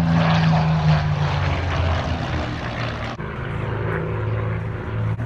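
Supermarine Spitfires' Rolls-Royce Merlin V12 piston engines droning during a display pass, a steady propeller-aircraft engine note. About three seconds in, the sound changes abruptly to a lower, duller drone.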